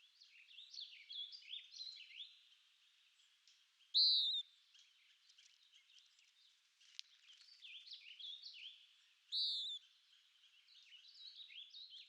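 Songbirds singing: quick runs of chirping notes, broken twice by a loud, clear call about four and nine seconds in.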